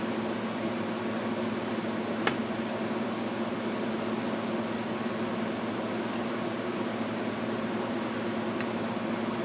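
A steady mechanical hum, with one short click about two seconds in.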